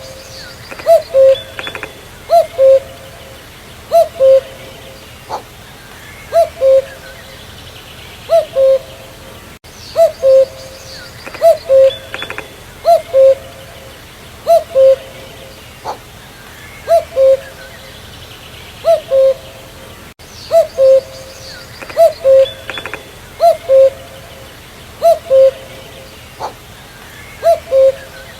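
Common cuckoo (Cuculus canorus) calling its two-note "cu-coo", the second note lower than the first, repeated about every one and a half seconds. Smaller birds chirp faintly behind it.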